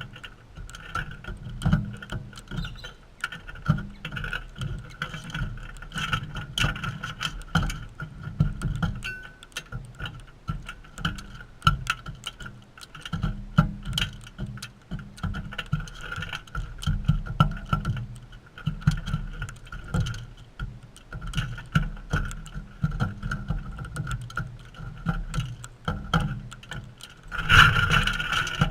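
Galahs close by: many quick, irregular clicks and taps over an uneven low rumble, with a louder burst near the end.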